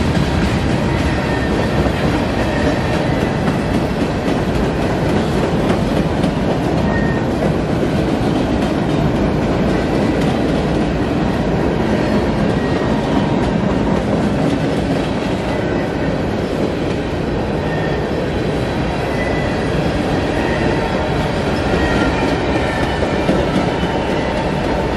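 Freight cars of a passing manifest train: steel wheels rolling steadily over the rails at close range, with faint high wheel squeals now and then.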